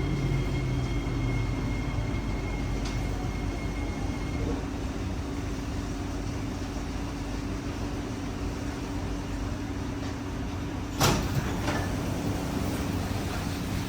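Kawasaki C151C metro train standing at the platform, its onboard equipment giving a steady hum with a thin high whine that stops about 4 s in. About 11 s in comes a sharp clunk, the loudest thing here, followed by a softer one.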